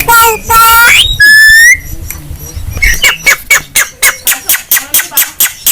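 Javan myna calling close up. It gives a few loud, drawn-out calls, the last a slightly rising whistle, then after a short gap a fast run of sharp clicking notes, about seven a second.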